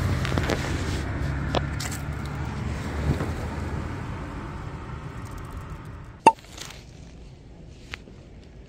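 A car engine running with a steady low hum that fades away over several seconds, then a single sharp click about six seconds in.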